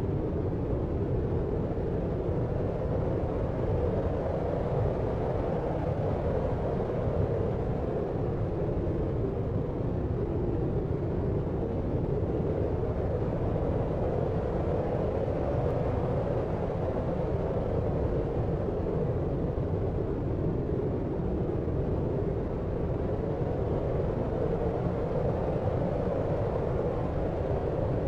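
Steady deep white noise: an even, unchanging rush, dark and muffled, with most of its weight in the low end.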